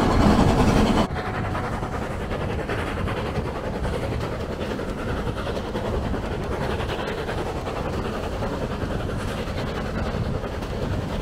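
Background music cuts off about a second in, giving way to a steam-hauled heritage train running along, heard from a carriage window: a steady rumble of the coaches on the track.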